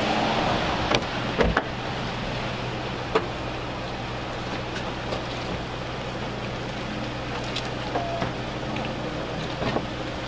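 Steady low hum of an idling vehicle engine, with a few short clicks and knocks in the first three seconds as the infant car seat in the back of the car is handled.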